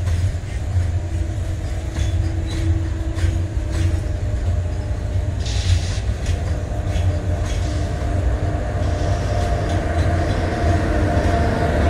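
Container freight train's wagons rolling slowly, a heavy steady rumble with irregular clicks from the wheels on the rails. A second train, an electric locomotive hauling passenger coaches, draws near on the next track, and the sound grows louder toward the end.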